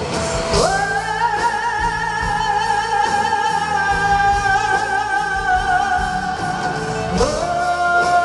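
A singer holds one long high note with a slight vibrato, swooping up into it about half a second in and holding it for some six seconds before moving to a new note, over a steady instrumental accompaniment.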